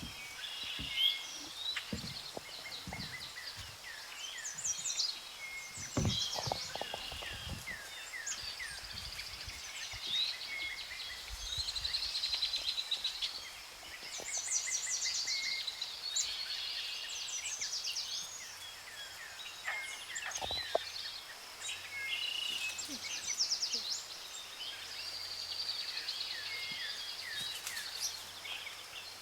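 Tropical forest birds calling: a chorus of overlapping chirps, whistles and quick trills from several birds. There are a couple of soft low thuds.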